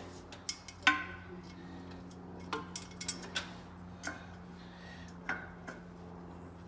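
Irregular sharp metallic clicks and taps from hand tools and fasteners, about a dozen, while an engine cooling fan is being fitted. The loudest is about a second in, and a steady low hum runs underneath.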